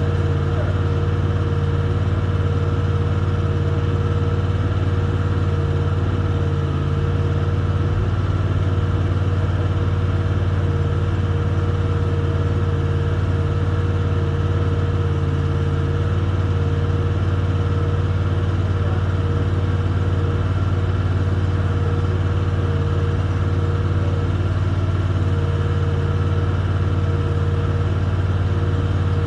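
Engine idling steadily: an even, unchanging drone with a constant low hum.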